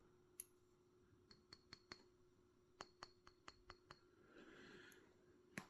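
Faint light clicks and clinks of small metal batarang pieces being handled and set down, about a dozen scattered taps, with a soft brief rustle a little past four seconds in.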